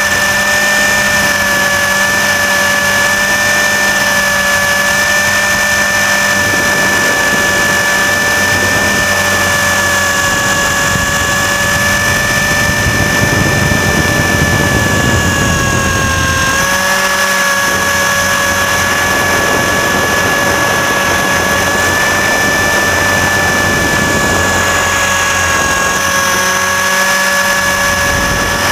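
RC helicopter's motor and rotors heard close up from a camera mounted on the machine: a steady high whine, with its pitch dipping briefly about two-thirds of the way in. A rushing noise swells twice, in the middle and near the end.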